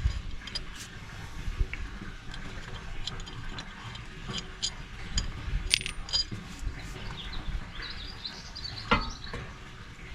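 Hand tools clinking and clicking on metal while a loose rubber mount under a pressure washer's tank is refitted and screwed back down: scattered light clinks, with a sharper knock about nine seconds in.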